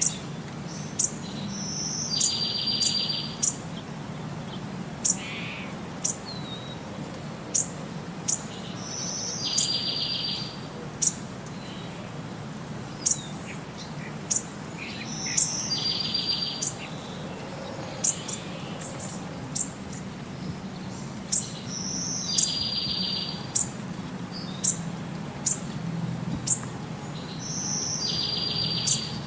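Birds singing: one repeats a short high note followed by a buzzy trill about every six seconds, among scattered sharp, very high chirps.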